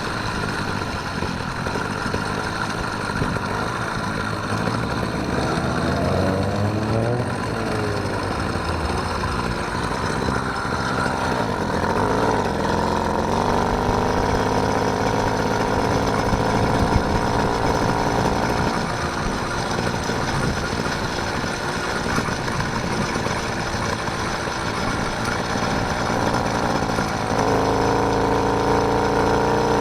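Small engine of a motorised bicycle running under way, its pitch shifting up and down with the throttle and stepping up near the end.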